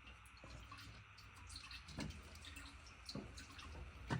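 Faint, scattered light clicks and taps of small metal parts (a washer and clip) being fitted onto a throttle spring and linkage by hand, over a low steady hum.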